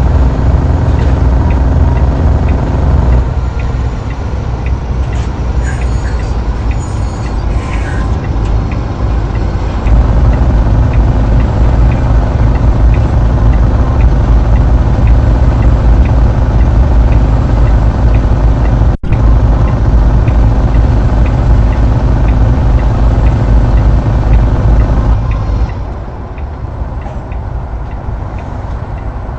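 A road vehicle's engine and road noise, a loud, steady low drone. It eases off about three seconds in, picks up again about ten seconds in and drops back near the end, with a momentary dropout about two-thirds of the way through.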